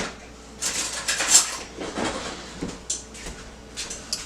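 A utensil scraping and clinking in irregular strokes as minced garlic is scooped out and spread over the meat.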